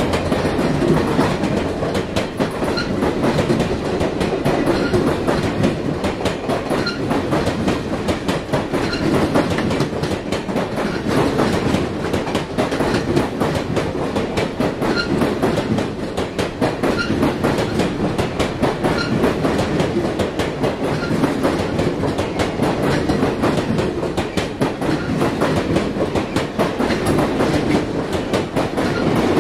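Circus train passenger cars rolling steadily past, their steel wheels clicking over the rail joints in a continuous clickety-clack over a low rumble.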